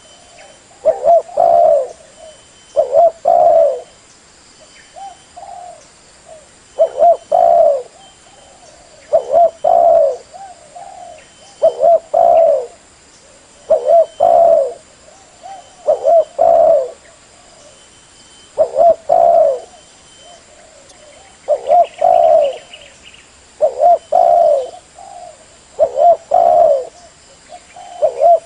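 Spotted dove (tekukur) cooing. Phrases of two or three notes repeat about once every two seconds: the song used to lure other spotted doves.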